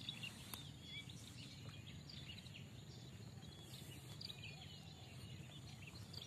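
Birds chirping, many quick overlapping calls, over a steady low background rumble.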